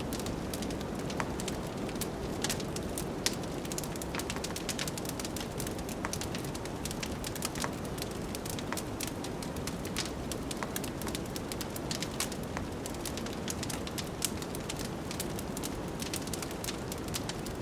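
Wood fire crackling in a fireplace, with many small irregular pops and snaps, over a steady low rush of blizzard wind.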